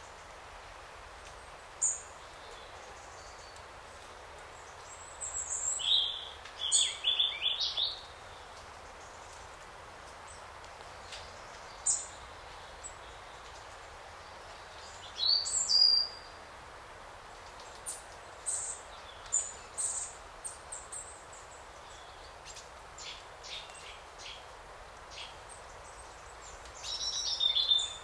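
Forest birds calling, with short high chirps and brief song phrases at irregular intervals over a steady soft hiss of forest ambience. The fullest bursts of song come about a quarter of the way in, around the middle and near the end.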